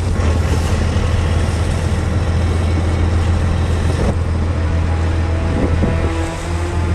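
A fishing boat's engine running steadily, a constant low drone with sea and wind noise over it.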